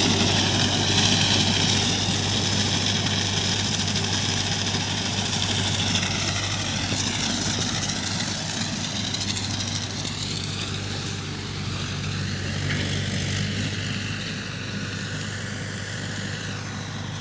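Mahindra 585 DI XP Plus tractor's diesel engine running steadily, with a wavering high whine above the engine note, slowly getting quieter.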